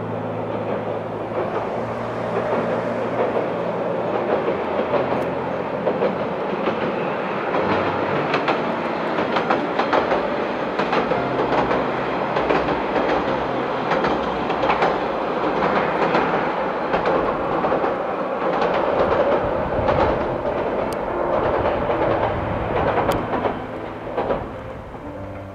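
Two-car diesel railcar rolling across a steel railway bridge: a steady rumble from the steel bridge, with wheels clacking rapidly over the rail joints.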